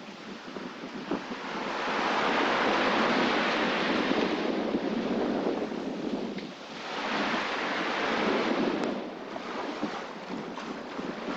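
Sea rushing and breaking around a sailboat under way, with wind buffeting the microphone. The wash swells twice, about two seconds in and again about seven seconds in.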